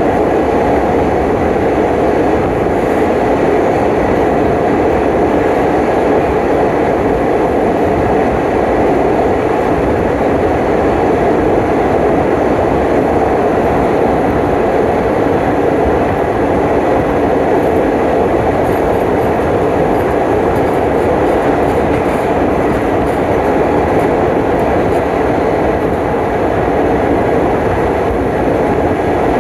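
Passenger train running on the line: a steady, loud running noise of the moving carriages, unbroken throughout, with a faint steady whine above it.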